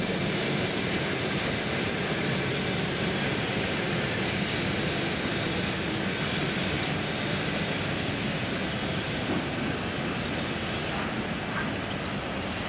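Freight train hauled by a VL10 two-section DC electric locomotive rolling past with a steady, continuous rail noise.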